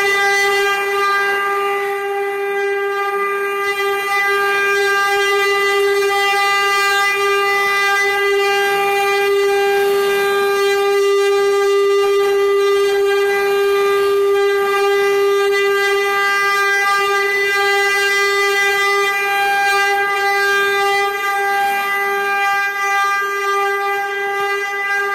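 Spindles of a six-head CNC cutting and engraving machine running with a steady whine that holds one pitch throughout.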